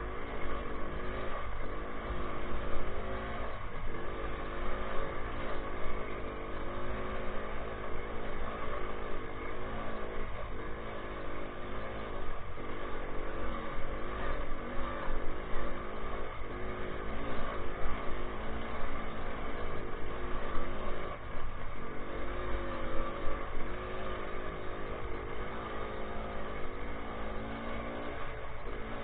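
Minsk motorcycle's single-cylinder two-stroke engine running, its pitch rising and falling again and again as the throttle is opened and closed.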